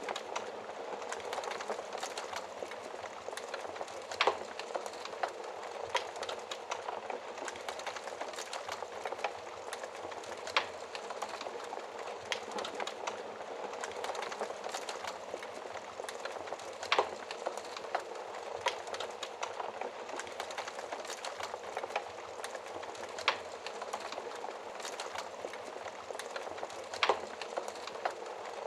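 Wood fire crackling steadily, with about six sharp, louder pops spaced a few seconds apart.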